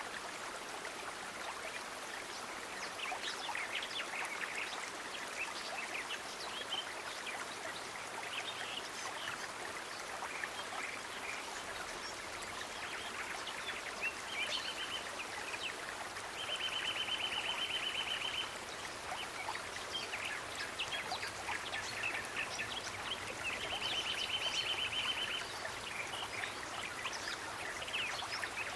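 A stream trickling and splashing steadily, with short high chirps scattered through it and two rapid, high trills of about two seconds each, one a little past the middle and one about two-thirds of the way through.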